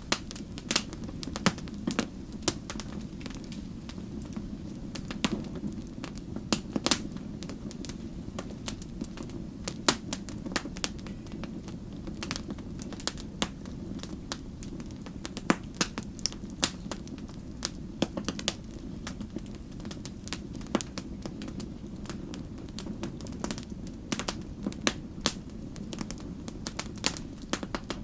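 Campfire wood burning, crackling and popping in irregular sharp snaps, several a second at times, over a steady low rush.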